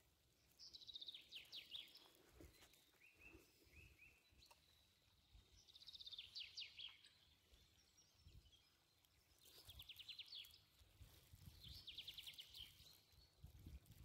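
Faint songbird singing: four short phrases of rapid trilled notes with pauses between them.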